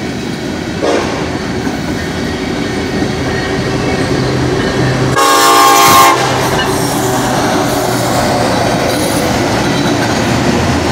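Freight train passing through a grade crossing: the steady noise of cars and wheels on the rails. A locomotive horn sounds one short blast, about a second long, roughly five seconds in, and that blast is the loudest moment.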